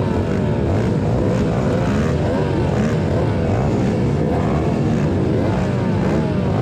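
Several small dirt-bike engines racing, their overlapping notes repeatedly revving up and dropping as they shift and throttle through the course.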